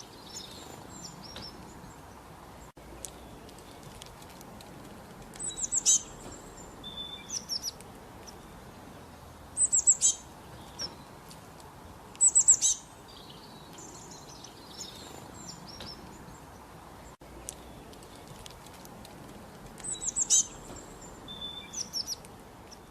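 Songbirds calling: clusters of quick, high chirps and short trills every few seconds, over a steady background hiss of flowing water.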